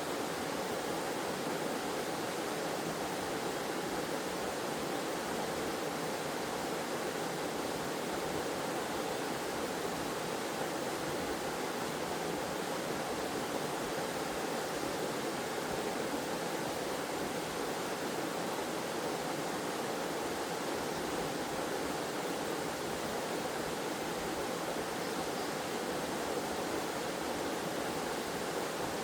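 Waterfall: water falling and flowing in a steady, unbroken rush with no change over the whole stretch.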